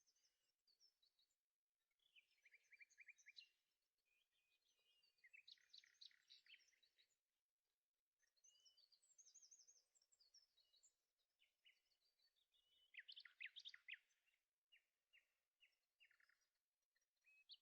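Faint songbirds singing: short chirping and trilling phrases that come and go, with brief pauses between them.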